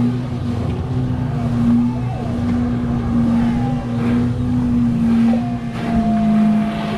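An engine running steadily at a constant speed, giving a continuous low hum that holds one pitch.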